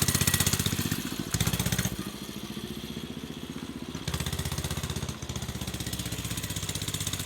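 Motorcycle engine running with an even, rapid firing pulse, growing louder for spells about a second in and again about four seconds in, and quieter between.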